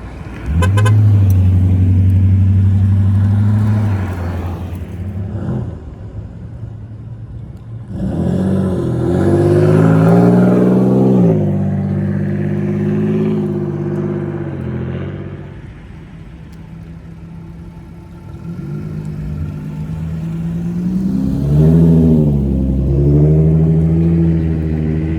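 Custom VIP-style cars with aftermarket exhausts driving past one after another. Each engine note swells as the car comes by and pulls away, and there is a quick rev blip near the end.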